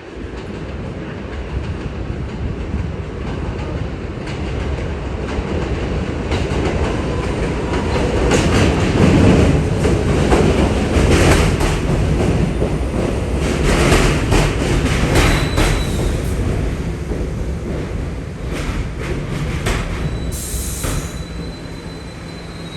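New York City subway train going by on the D line. Its rumble builds to a peak about halfway through, with wheels clacking over rail joints, and a thin high wheel squeal comes in briefly near the end.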